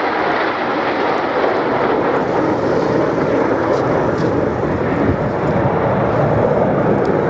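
Jet engine noise from the Red Arrows' formation of nine BAE Hawk T1 jets flying their display, a loud, steady rushing noise without breaks.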